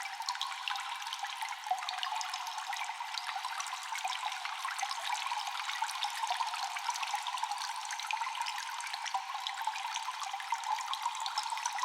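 Water dripping constantly in an echoing cave: many small drops in quick succession over a steady trickling wash.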